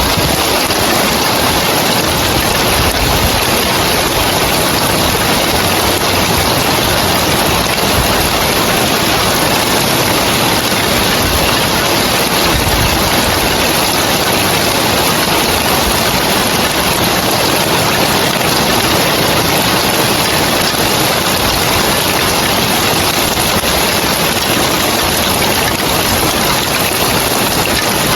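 Rain falling steadily on roof tiles, a dense even hiss that holds without break.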